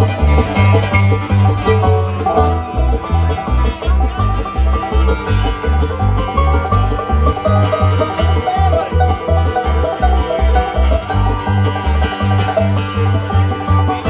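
Live bluegrass band playing an instrumental break led by banjo, with guitar and bass notes on a steady beat.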